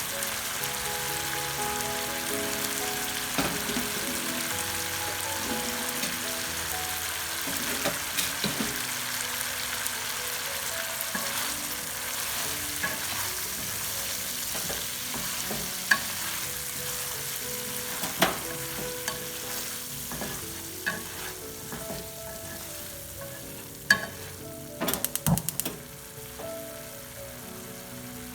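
Quail eggs sizzling steadily in a frying pan as they are stir-fried, with sharp knocks and scrapes of a utensil against the pan now and then, clustered near the end. Soft background music runs underneath.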